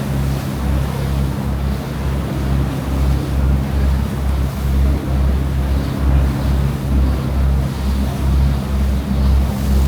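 A ferry's engines droning steadily with a low throb about twice a second, under wind and rushing sea water.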